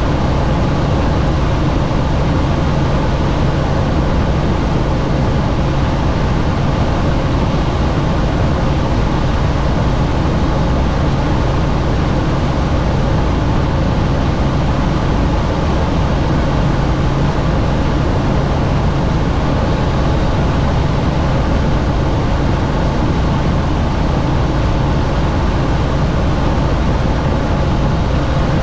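Helicopter in flight heard from inside the cabin: a steady, loud drone of rotor and engine with rushing air from the open doors.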